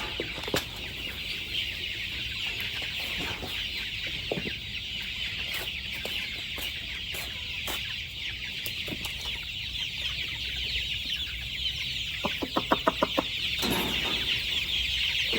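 Flock of chickens clucking over a steady high-pitched chorus, with a quick run of about a dozen loud clucks some twelve seconds in.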